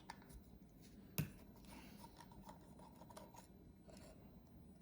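Quiet handling of small metal tools and screws: two sharp clicks, the louder about a second in, then faint ticks and light scraping as tiny screwdriver bits and screws are worked.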